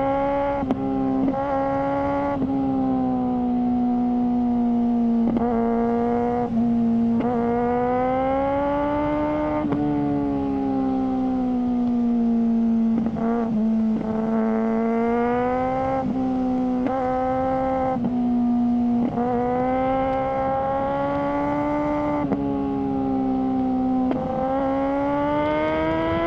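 Suzuki GSR600 inline-four motorcycle engine through a GPR Ghost aftermarket exhaust, running continuously under way. Its note rises and falls gently, with short dips every few seconds where the throttle is rolled off or a gear is changed.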